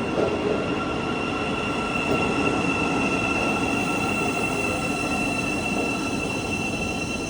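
Thameslink Class 700 electric multiple unit running along the platform, a steady rumble of wheels on rail with a steady high-pitched squeal held over it.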